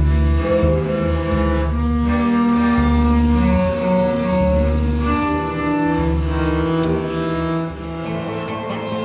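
Violin and acoustic guitar playing a free improvisation: long bowed violin notes over sustained low notes, with short plucked notes coming in near the end.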